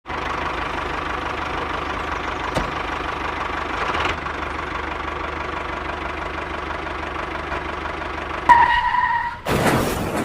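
A small motor running steadily, with a single sharp click about two and a half seconds in. Near the end a short steady tone sounds, followed by a brief loud noisy burst.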